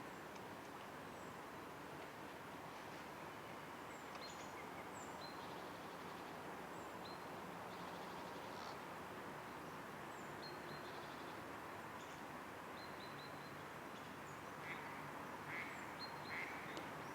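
Outdoor nature ambience: a steady soft hiss with many short, high-pitched bird chirps scattered throughout, and a few louder, lower bird calls near the end.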